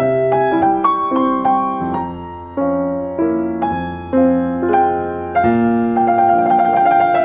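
Solo piano music: single notes and chords struck one after another, each fading as it rings, over lower held notes.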